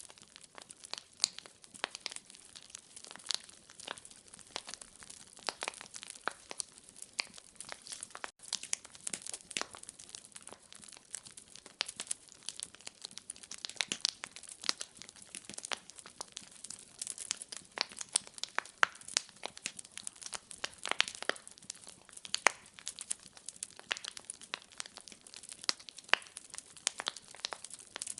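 Wood fire crackling in a fireplace: irregular sharp pops and snaps over a faint steady hiss, with a momentary drop-out about eight seconds in.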